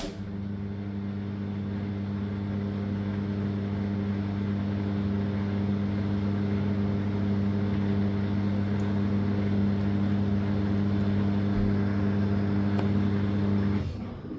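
Drain pump of a Living & Co 5.5 kg top-load washing machine humming steadily as it pumps out the water near the end of the cycle, then cutting off suddenly about a second before the end.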